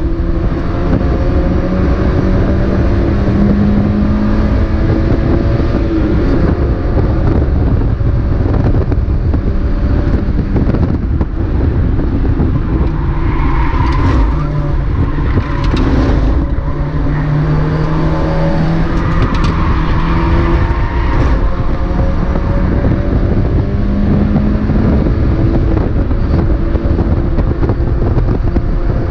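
Mazda MX-5 race car's four-cylinder engine under racing load, its pitch rising and falling repeatedly as it accelerates, lifts and shifts gear, over a constant rumble of road and wind noise.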